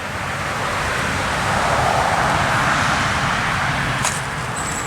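A vehicle going past: a rushing noise that swells to a peak around the middle and then fades.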